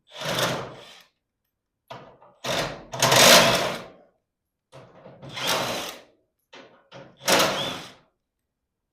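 Power driver running in short bursts, four main runs of about a second each with brief blips between, typical of driving the fasteners of a new garage-door hinge and roller.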